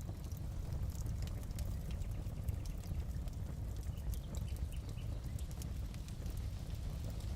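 Fireplace crackling: scattered sharp snaps and pops over a steady low rumble.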